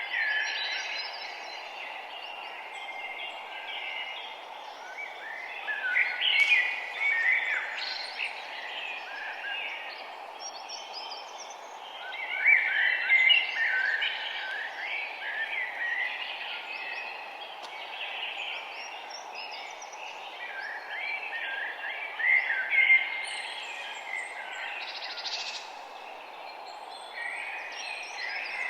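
Several songbirds chirping and singing, with louder bursts of song a few times, over a steady background hiss.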